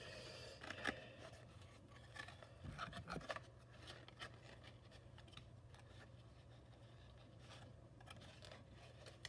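Faint rustling, scraping and small clicks of cardboard playset pieces being handled and fitted together, busiest in the first few seconds, over a low steady hum.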